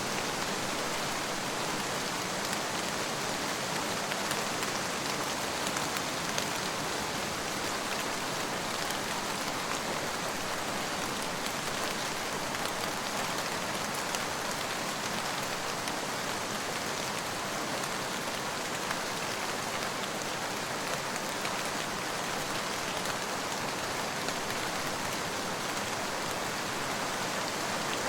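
Steady rain falling: an even hiss of many drops with a fine patter of individual drops running through it, holding at one level throughout.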